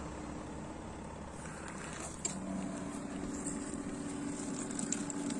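Small portable washing machine running: a steady motor hum with water churning, and a few light clicks in the second half.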